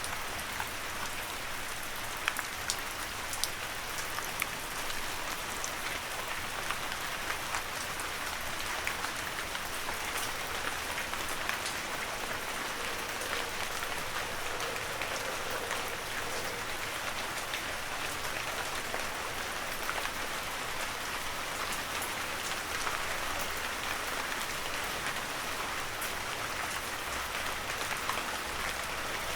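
Heavy rain falling steadily, a dense even hiss with many sharp individual drop impacts.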